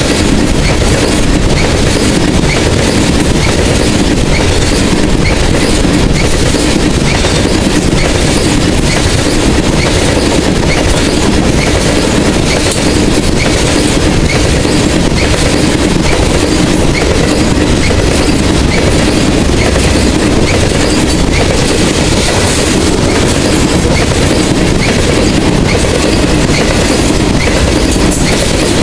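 Loaded coal hopper cars of a freight train rolling past: a loud, steady rumble of steel wheels on rail, with a regular clicking of the wheels.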